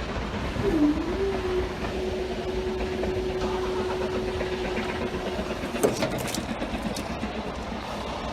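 Train running past a railway level crossing, a steady rumble, with a single steady tone held for about five seconds that cuts off suddenly.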